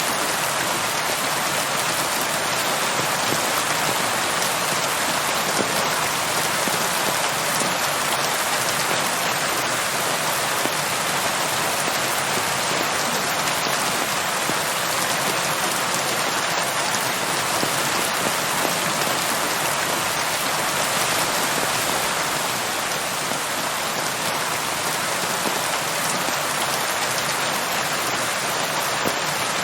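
Steady rain falling, a dense, even patter of countless drops on a hard surface.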